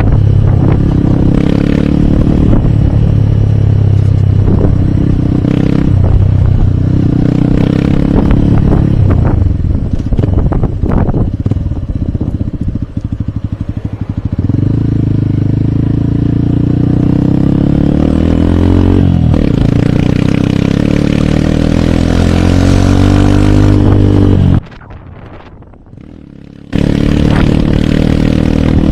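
Hero Hunk motorcycle's single-cylinder four-stroke engine running under way, easing off and then climbing steadily in pitch as it accelerates, with a brief dip partway through like a gear change. Near the end the sound cuts out for about two seconds, then comes back.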